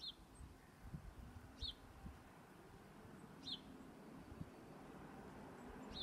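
A bird giving a short, high, falling chirp four times, about every two seconds, over a faint low hum that builds near the end.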